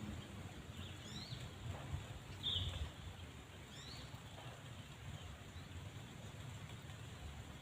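A bird repeating a short, high, rising chirp three times in the first four seconds, over a steady low rumble.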